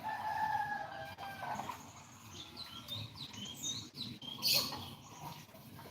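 Small pet birds chirping: a held call in the first second, then a flurry of short, quick chirps. A brief rustle about four and a half seconds in.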